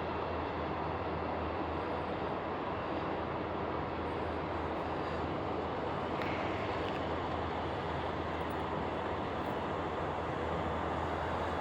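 Steady rain hiss with a low, steady engine rumble underneath.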